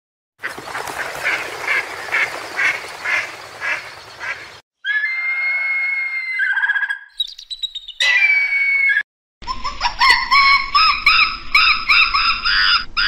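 Bird calls and squawks in three short pieces cut one after another, with brief silences between them. The last piece is a fast run of repeated calls.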